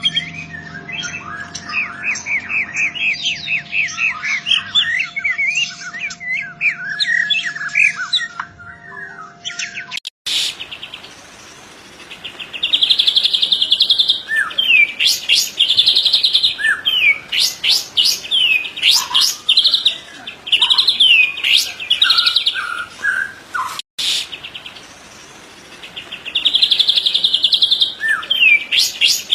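White-rumped shama singing a full, vigorous song: fluting, sliding whistled phrases for about ten seconds, then, after an abrupt break, loud rapid sharp rising 'shot' notes mixed with buzzy rattles, which resume after a second short break near the end.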